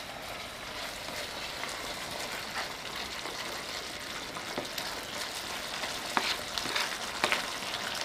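Meat with tomatoes sizzling in a frying pan as a plastic spoon stirs it, the spoon knocking and scraping against the pan several times in the second half.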